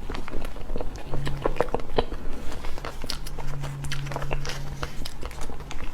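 Close-miked eating of soft cake: chewing with many small, sharp mouth clicks and smacks, over a low hum that comes and goes.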